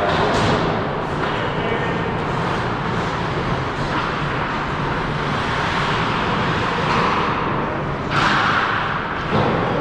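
Ice hockey game sound on the rink: a steady wash of noise with a few knocks, likely sticks and puck, and a louder hissing scrape about eight seconds in.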